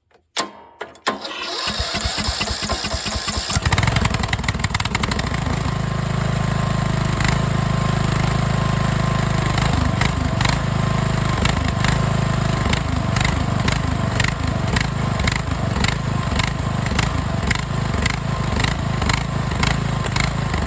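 Riding mower's small engine cranked over for about two seconds, then catching and running steadily. It is restarting after stalling from fuel starvation.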